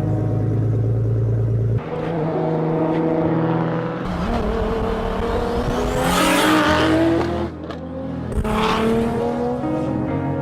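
A car engine revving with a couple of brief tyre-screech-like flares, laid over music.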